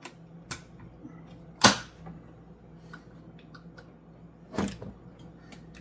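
A few sharp knocks and clicks over a steady low hum, the loudest about a second and a half in and another near the end.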